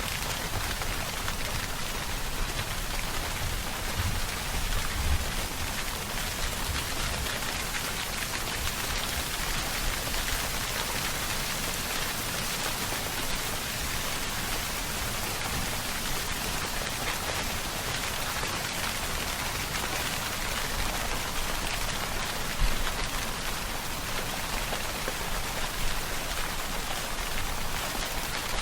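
Steady rainfall pattering on a surface, an even hiss with no let-up, with one slightly louder drop or gust about three quarters of the way through.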